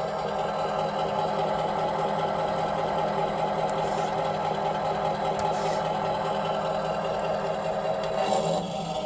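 Tamiya Scania R620 radio-controlled model truck running steadily, with a few faint clicks.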